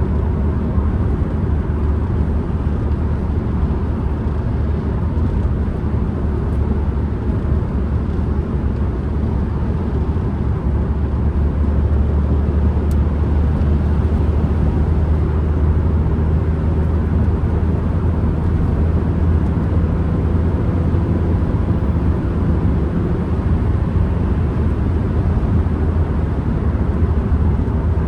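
Ford Transit Connect van driving, heard from inside the cabin: its engine running steadily under a low road rumble, with the engine note shifting slightly about halfway through.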